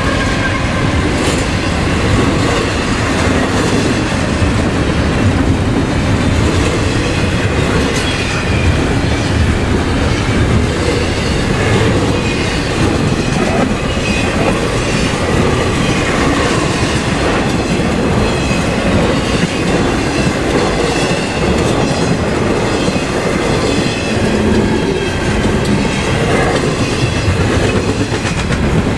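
Double-stack intermodal freight train's well cars rolling past loud and steady, their steel wheels running on the rails.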